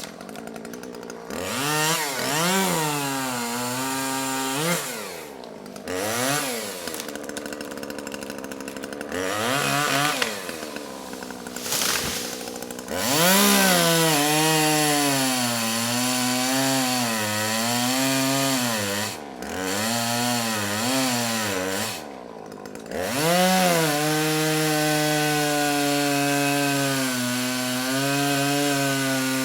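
Chainsaw cutting small trees: the motor revs up and drops in pitch over and over as it goes into the wood, with several short breaks between cuts. In the last few seconds it settles into a longer, steadier cut.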